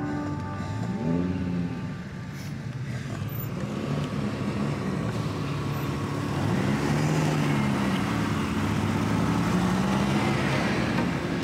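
Ferrari 360 Modena's V8 engine revving, its pitch rising and falling several times.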